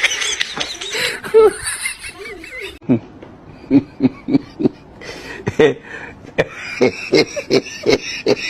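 A person laughing in short, repeated bursts of several a second, which set in about three seconds in.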